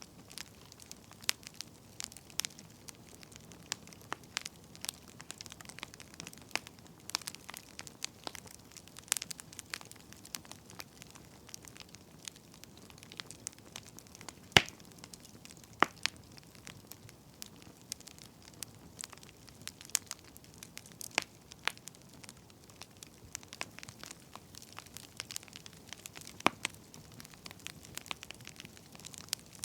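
Wood fire crackling: irregular sharp pops and snaps over a faint steady hiss, with one louder pop about halfway through.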